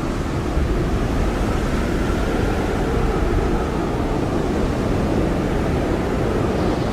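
Blizzard wind blowing hard and steadily, a dense rushing roar with a faint whistling tone that drifts slowly up and down in pitch.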